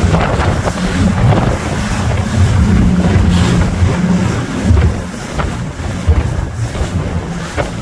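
Speedboat engine running under way, with wind buffeting the microphone and water splashing along the hull.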